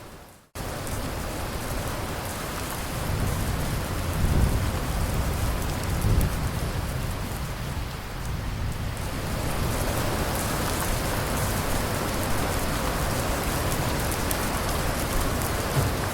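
Steady heavy rain with a low rumble of thunder rolling through, loudest about four and six seconds in. The sound drops out for an instant about half a second in, then the rain resumes at full level.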